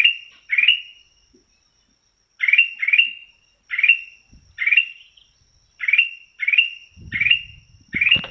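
Kutilang emas, a bulbul, calling a short chirp that sweeps upward and ends on a brief held note, repeated over and over at about one or two a second, with a pause about a second in. A faint steady high whine runs underneath, and low rumbling noise comes in near the end.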